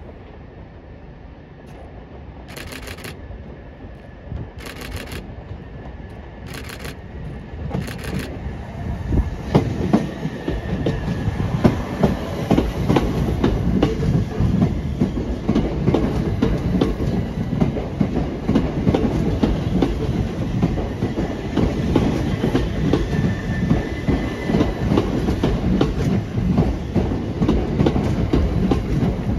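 Southeastern Electrostar electric multiple unit running past close alongside the platform, its wheels clattering over rail joints. It grows suddenly louder about eight seconds in and stays loud.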